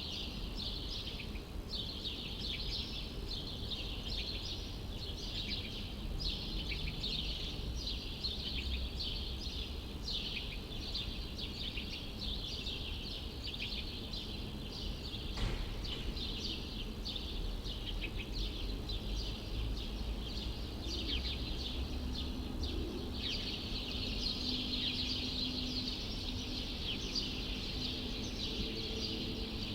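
A dense chorus of small birds chirping and twittering without pause, over the steady low rumble of a city. A single sharp click sounds about halfway through, and a steady low hum joins about two-thirds of the way in.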